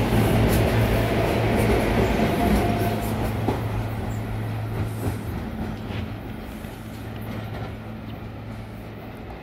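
SEPTA electric multiple-unit commuter train pulling away from the platform: a steady low electric hum with wheel-on-rail noise and a few faint clicks, fading as the train recedes.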